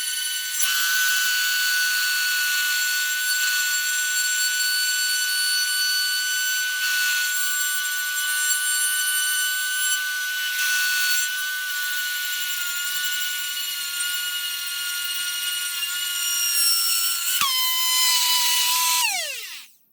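Angle grinder running at full speed with a steady high whine whose pitch sags a little now and then. Near the end it is switched off, and the whine glides down as the disc spins to a stop.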